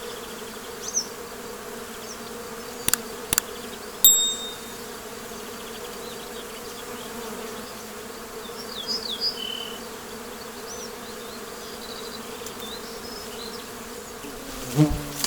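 Bees buzzing in a steady, many-voiced hum, with short bird chirps over it now and then. A few sharp clicks come about three to four seconds in, and a thump near the end.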